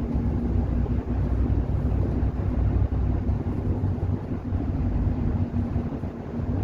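Moving bus heard from inside the cabin: steady low engine and road rumble with a constant hum.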